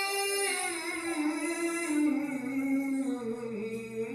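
A Quran reciter's voice in the melodic mujawwad style, holding one long ornamented note on a drawn-out vowel. The pitch wavers and slowly steps downward, then rises a little near the end.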